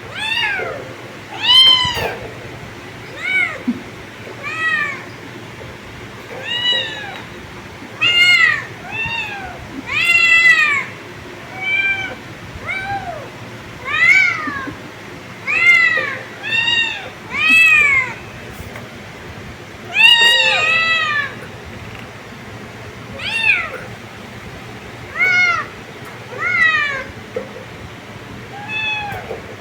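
Kittens meowing over and over: short, high-pitched calls that rise and fall in pitch, one every second or two, sometimes overlapping.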